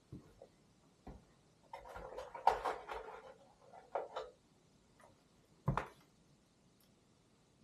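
Light handling sounds indoors: a few scattered clicks and knocks, with a second and a half of rustling or scraping about two seconds in, and a sharper knock near six seconds.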